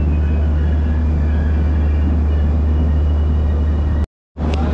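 Steady low hum from a standing air-conditioned Rajdhani Express train at the platform, with faint station noise over it. The sound cuts out briefly about four seconds in.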